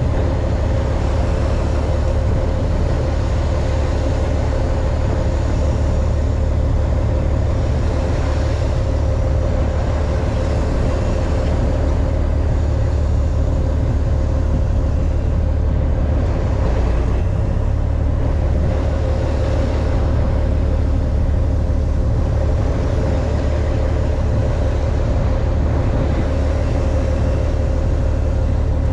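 Fishing boat's engine running steadily: a low, constant drone with a steady hum above it.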